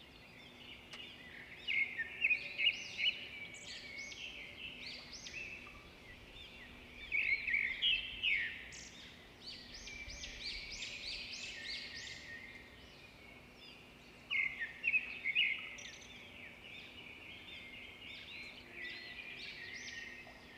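Small birds chirping and singing in repeated clusters of quick, high notes, busiest about two seconds in, around eight to thirteen seconds in, and again near fifteen seconds, over a faint steady low hum.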